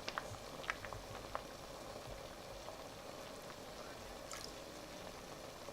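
Pot of chicken broth with bird's nest simmering quietly on the stove, with a few faint light clicks in the first second and a half.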